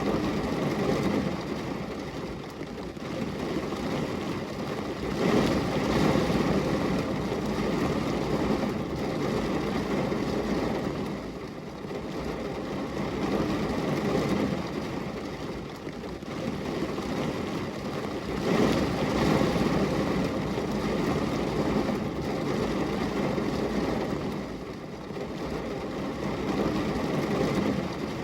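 Rain falling on window glass: an even rushing hiss that swells and eases every several seconds, loudest about five to seven seconds in and again near nineteen seconds.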